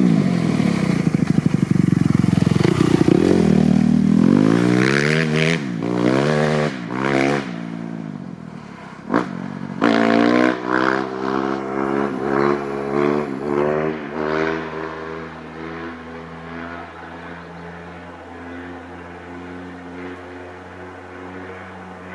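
Kawasaki KX250F single-cylinder four-stroke dirt bike engine through a full FMF 4.1 RCT exhaust, revving hard with the pitch rising and falling for the first several seconds. Then come a series of short throttle blips, and for the last third it settles to a quieter steady idle.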